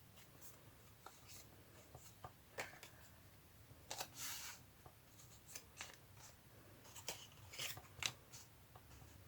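Faint paper handling: small paper pieces shuffled, slid and set down on a work table, with scattered light taps and a brief rustle about four seconds in.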